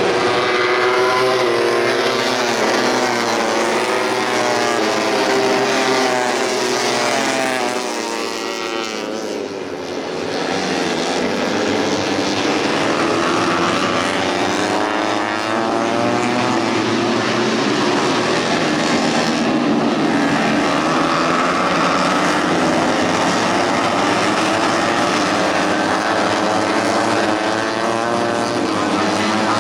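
Several tuned 150cc four-stroke underbone racing motorcycles running at high revs, their engine notes rising and falling with gear changes and passes. The sound dips briefly about a third of the way in, then picks up again.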